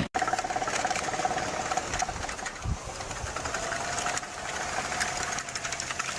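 A machine's engine running with a rapid mechanical clatter and a faint steady whine that drifts slightly in pitch.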